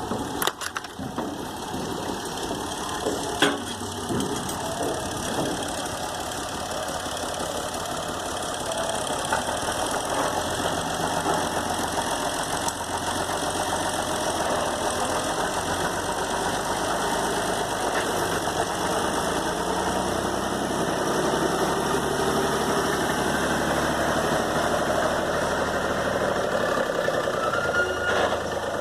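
Tractor engine running steadily, with a couple of sharp knocks in the first few seconds.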